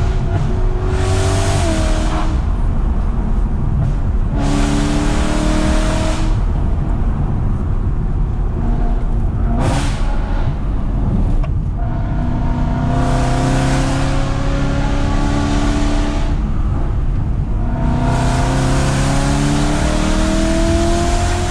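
BMW E92 M3's 4.0-litre V8 held in third gear, loud, repeatedly rising in pitch under throttle and falling back when the driver lifts off, several times over.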